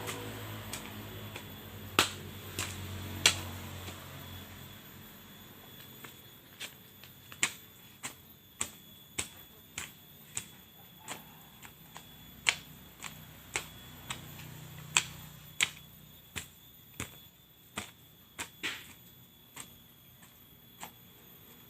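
A run of sharp, irregular clicks, about one or two a second, the loudest about two and three seconds in. A faint low murmur sits under the first few seconds.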